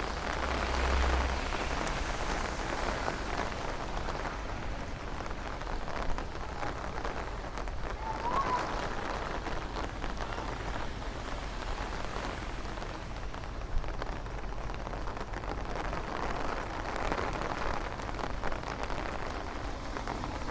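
Steady rain pattering on an umbrella and the wet street, with a brief low rumble about a second in.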